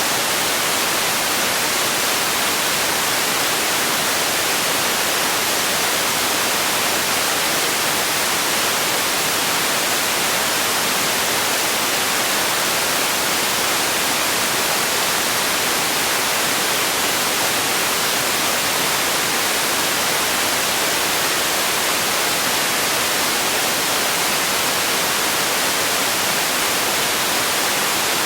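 Steady synthetic white noise: an even, unchanging hiss weighted toward the high frequencies, with no events or changes.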